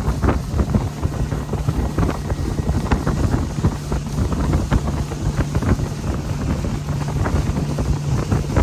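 Motorboat under way: a steady engine drone under heavy wind buffeting on the microphone, with frequent short thumps throughout.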